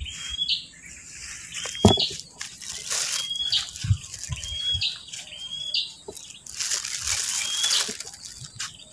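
A bird calling over and over, a short high note ending in an upward flick, about six times, over rustling and handling noise. A sharp thump about two seconds in.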